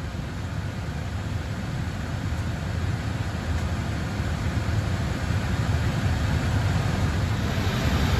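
Steady low rumble with a hiss in an Airbus A321neo cockpit, growing gradually louder.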